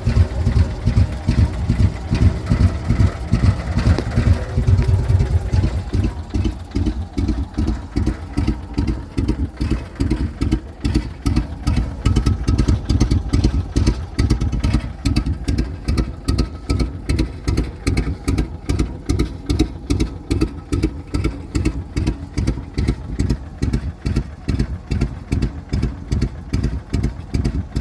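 Cushman turf utility truck engine running, busier and higher for the first five seconds or so, then settling to a slow, even idle with a regular pulsing beat.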